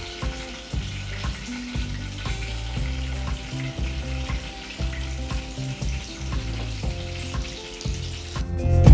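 Mutton kababs sizzling steadily as they shallow-fry in oil in a non-stick frying pan, while raw kababs are laid into the hot oil.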